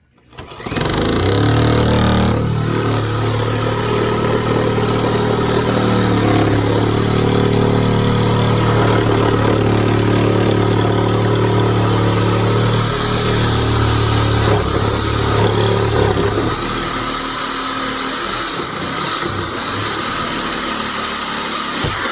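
Electric power saw starting up, running under load as it cuts through wood framing for about twenty seconds with a steady high motor whine that dips briefly near the end, then winding down.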